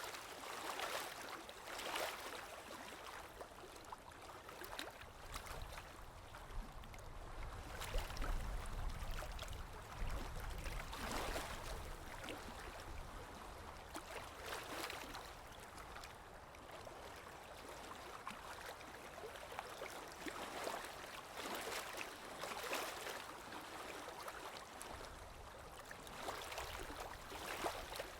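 Water flowing and splashing, in uneven surges every second or two over a steady rush.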